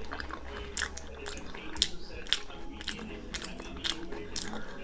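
A person chewing crispy, fried pancake edges close to the microphone: a run of sharp crunches, about two a second. A low steady hum sits underneath.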